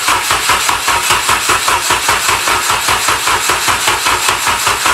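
Honda K20 four-cylinder engine being cranked by its starter without firing: an even, rhythmic chug of several compression beats a second. It turns over healthily, but the first fire-up does not catch, which the owner puts down to the engine computer needing to be set up.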